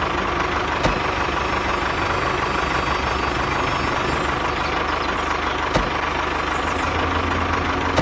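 A tractor engine idling steadily with a low even knock, and two short clicks, one about a second in and one near six seconds.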